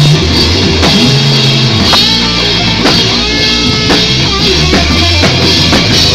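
Rock band playing live: a drum kit hitting about once a second, with sustained low notes and guitar.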